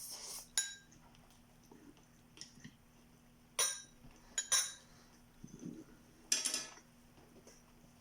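Metal cutlery clinking against a plate while eating, about four short ringing strikes spread over several seconds, with a faint steady hum underneath.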